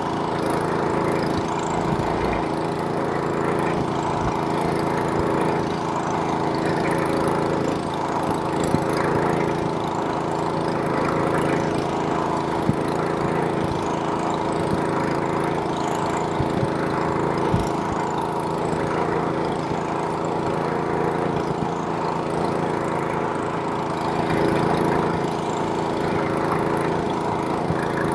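Snowblower's small gas engine running steadily, with the rushing of snow being thrown and a few light knocks.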